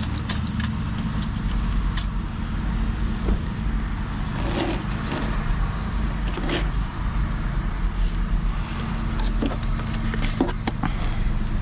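Small handling sounds of drawing a table in a paper planner: scattered clicks, taps and scratches of a pen and ruler on paper. Under them runs a steady low hum.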